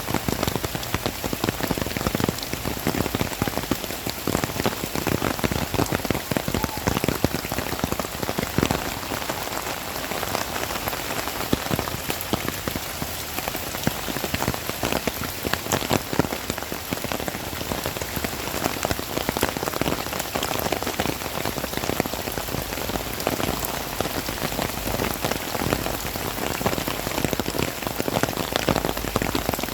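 Heavy rain falling steadily, with a dense patter of drops striking a hard surface close to the microphone.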